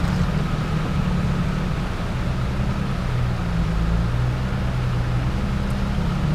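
SUV engine idling steadily close by, a low even hum, over the constant hiss of a fast-flowing, muddy creek.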